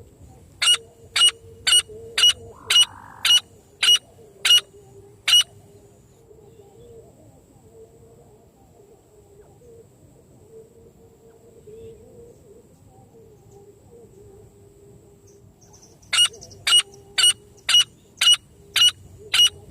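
Francolin (teetar) call notes: short, sharp, evenly spaced notes at about two a second, in two bouts. The first bout has about nine notes. After a pause of roughly ten seconds, the second bout starts near the end.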